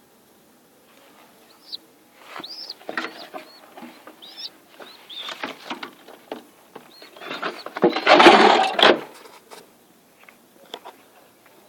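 Small cage birds chirping in short, high, arching calls, with scattered clicks and one louder noisy rush lasting about a second near the end.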